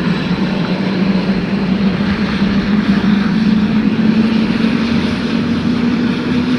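Aircraft engine running steadily at the airfield, its hum slowly rising in pitch.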